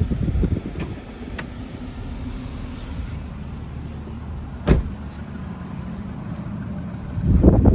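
2020 Porsche Macan S's twin-turbo V6 idling steadily shortly after a cold start. There is a sharp click about two-thirds of the way through, and louder gusty noise starts near the end.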